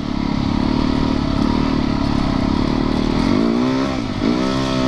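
Yamaha YZ450FX dirt bike's single-cylinder four-stroke engine running steadily under way, then revving up with rising pitch about three seconds in, dropping briefly as it shifts gear, and rising again.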